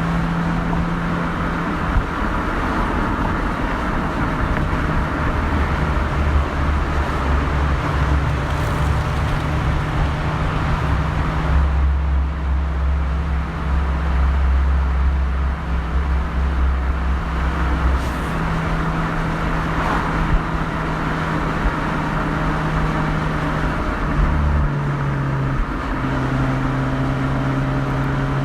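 Mazda RX-8's twin-rotor rotary engine and exhaust while driving, holding a steady engine speed with road noise underneath. Around 24 seconds in, the engine note changes pitch, then steadies again.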